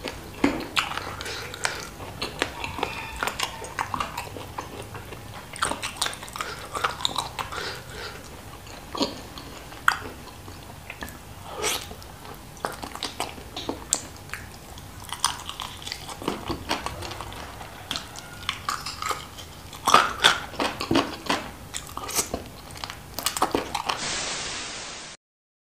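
Close-up mouth sounds of eating chili-sauced chicken feet: biting, chewing and lip smacking with many sharp wet clicks. Near the end a second-long burst of static hiss takes over, then the sound cuts off.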